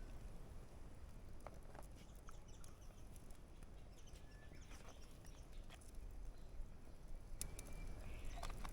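Faint outdoor ambience: scattered small clicks and ticks, a few short high chirps, and a low rumble that grows a little near the end.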